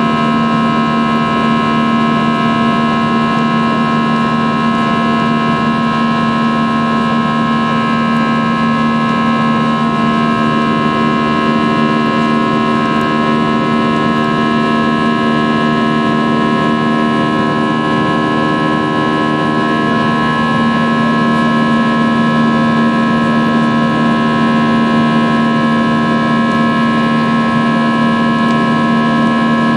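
Airbus A320 jet engines heard from inside the cabin in the climb after takeoff: a steady, loud drone with several fixed whining tones over a low hum, a few of the tones shifting slightly partway through.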